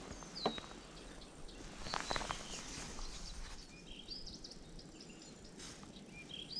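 Small birds chirping in short calls that glide downward, over a steady outdoor background hiss, with a few sharp clicks about half a second and two seconds in.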